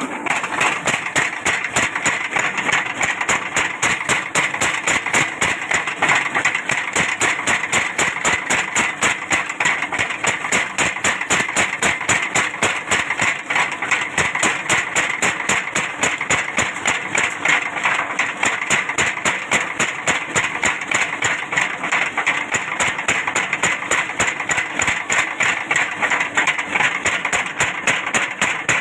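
A machine running with a fast, even pounding of about five strokes a second, steady throughout.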